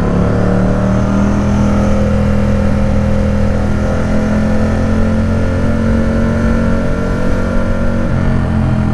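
Ducati Supersport 950 S's L-twin engine running through a new, really loud exhaust at a steady cruising pace, its pitch rising a little in the first second and then holding.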